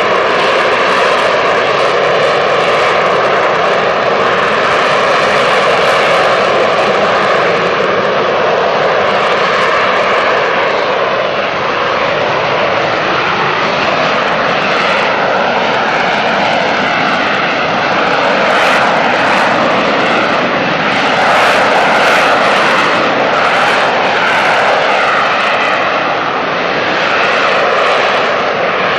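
AV-8B Harrier II's Rolls-Royce Pegasus turbofan running loud and steady, a jet rush with a whine of several steady tones that wavers and shifts in pitch over the second half.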